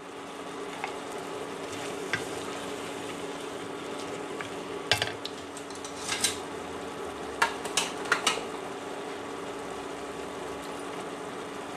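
Tomato and onion curry sizzling gently in a pot, with a few light knocks of the wooden spoon against the pot around the middle.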